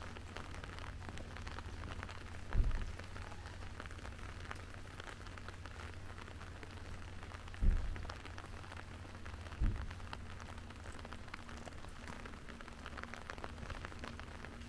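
Steady rain falling, heard as an even hiss dotted with many small drop ticks. Three dull low thumps stand out: one about two and a half seconds in, and two more near eight and ten seconds.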